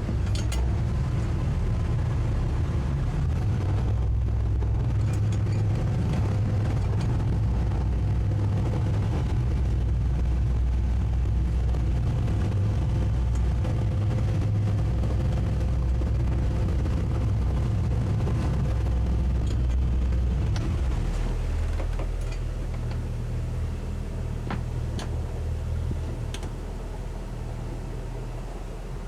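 The towboat's twin 200 hp Suzuki outboard engines run with a steady low drone under tow load, then ease back to a lower, quieter running note about two-thirds of the way through.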